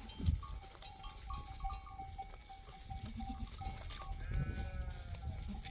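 A flock of sheep and goats, with one bleat about four seconds in over the steady, on-and-off ringing of a livestock bell.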